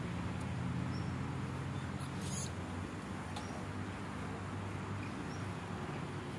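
Car engine idling with a steady low hum, with a few faint, short high chirps over it.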